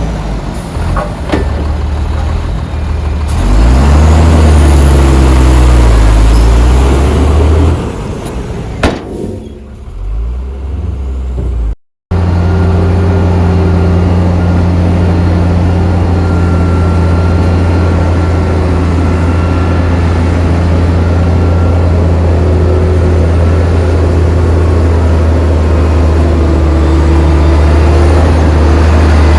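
Heavy diesel engines of earthmoving machinery working: for the first several seconds an engine revs up and down under load. After a sudden break about twelve seconds in, a loud, steady engine drone follows.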